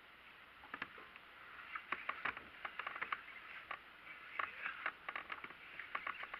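Irregular small clicks and knocks of fishing gear being handled on a kayak, starting about a second in and growing busier from about two seconds in.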